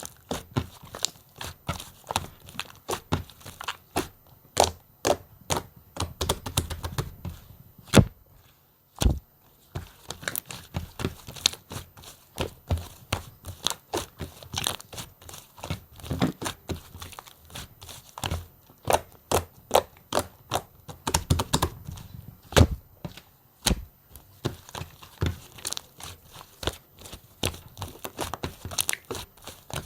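Light pink fluffy clay slime being squeezed, pressed and poked by hand, making a run of irregular crackling clicks and pops as trapped air bursts, with a few sharper snaps.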